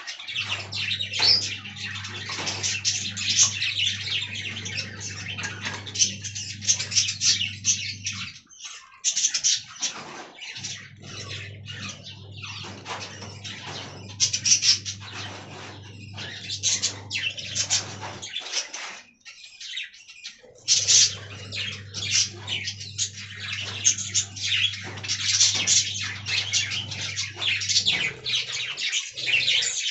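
Budgerigars chirping and warbling in busy, continuous chatter. A steady low hum runs underneath and drops out twice for a couple of seconds.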